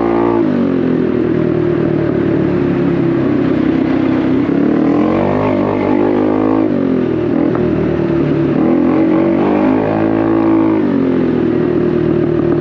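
Honda Navi's 109 cc single-cylinder engine through an aftermarket Vance & Hines exhaust, heard while riding. It holds a steady speed, then the pitch rises twice as the throttle opens, about five and eight seconds in, dropping back sharply each time.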